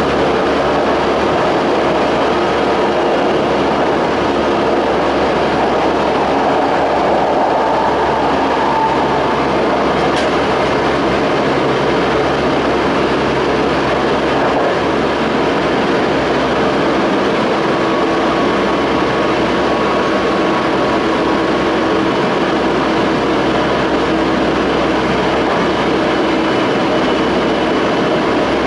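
Toei 5300 series commuter train running at speed, heard inside the car: a steady rumble of wheels on rail and car-body noise, with faint steady tones from the traction equipment.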